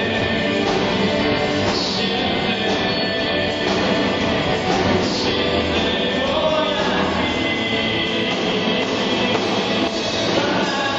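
Rock band music with singing, played steadily throughout.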